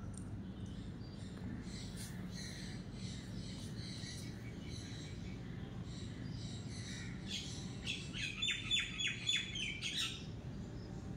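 Birds chirping outside, scattered high notes at first, then a louder run of quick repeated chirps near the end. A low steady hum runs underneath.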